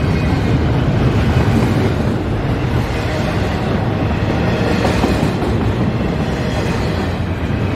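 CSX intermodal freight train rolling past, its wheels on the rails making a steady, loud rumble.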